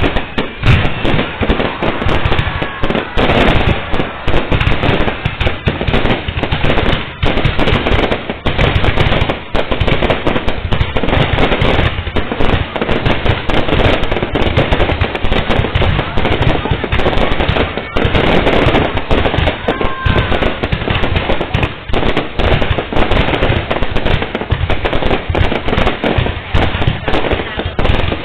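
Fireworks display: a loud, dense, continuous barrage of bangs and crackles with no pause.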